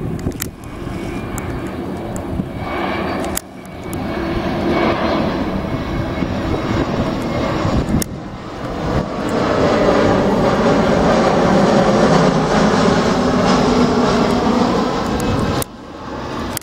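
Engines of arriving airliners, a steady loud engine noise with a few held tones, in short clips joined by abrupt cuts about three seconds in, about eight seconds in, and shortly before the end. The loudest stretch comes about two-thirds of the way through.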